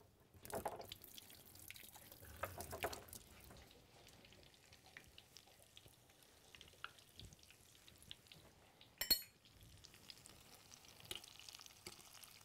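Battered banana pieces frying in hot oil: a faint sizzle with scattered small crackles, and a sharp click just after nine seconds.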